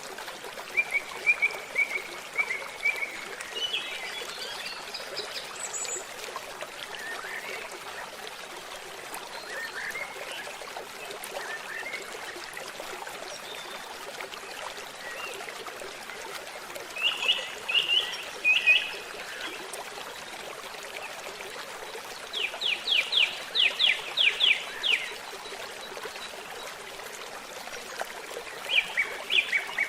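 A babbling stream running steadily, with songbirds singing over it in short chirping trills: one near the start, a few more past the middle, and a rapid run of clear notes about three quarters through.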